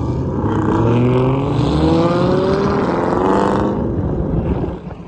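Dodge Charger Scat Pack's 392 HEMI V8 accelerating hard, its pitch climbing steadily for about three seconds before it falls away near the end.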